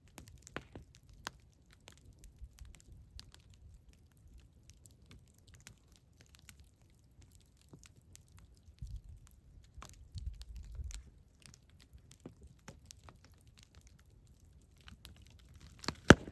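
Campfire crackling: irregular sharp snaps and pops of burning wood over a low rumble, with one loud pop near the end.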